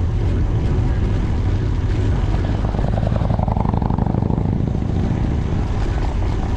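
Steady rumble of wind buffeting the microphone on a moving bicycle, with road noise underneath. A rushing sound swells about halfway through and fades again, as of a vehicle going by.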